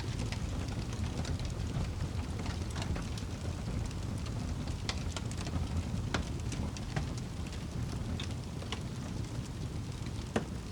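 Wood fire burning in a fireplace: a low steady rumble of flames with scattered sharp crackles and pops, the loudest pop near the end.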